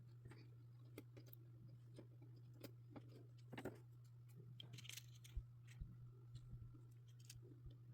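Faint scattered clicks and rustles of jumper wires being handled and pushed into breadboard holes, over a low steady hum; near silence overall.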